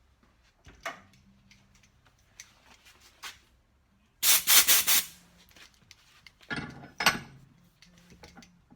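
Scattered small clicks and scraping from tool handling. About four seconds in comes a loud burst of hissing in several quick pulses lasting under a second, then a shorter hiss near seven seconds, as the threaded hole is cleaned out.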